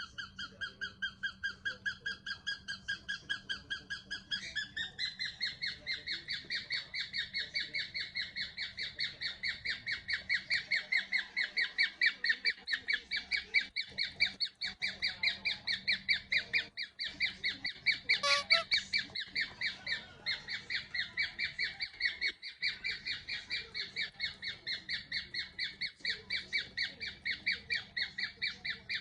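Male cockatiel chirping a rapid, even run of short notes, about four a second and without a break, stepping up in pitch a few seconds in.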